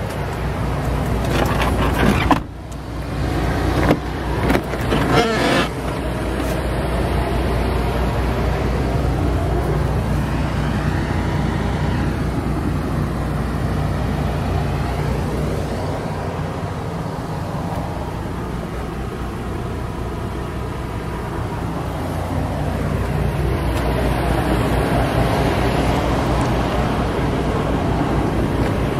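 A vehicle engine idling steadily, with a few sharp knocks and thumps in the first six seconds.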